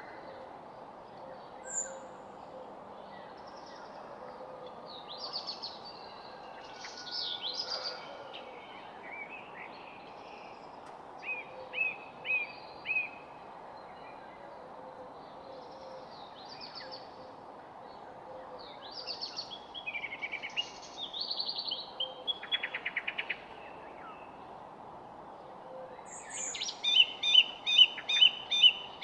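Several songbirds singing and calling in short, varied phrases over a steady background hiss, with a loud, fast trilled song near the end.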